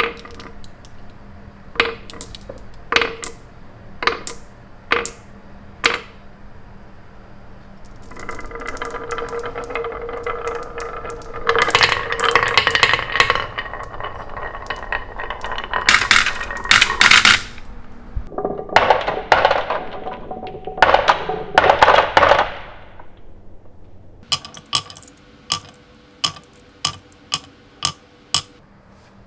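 Marbles clicking and clattering on a toy track. About six separate clicks come first. Then there is a long spell of dense rattling and clinking, and near the end a quicker run of clicks, about two a second.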